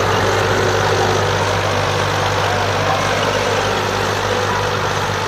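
Diesel farm tractor engine idling steadily, an even low hum.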